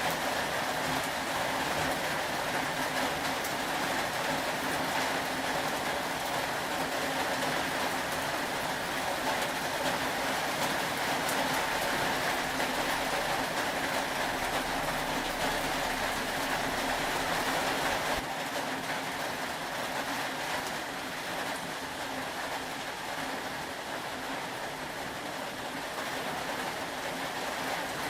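Steady rain, an even hiss without distinct drops standing out, which drops a little in level about two-thirds of the way through.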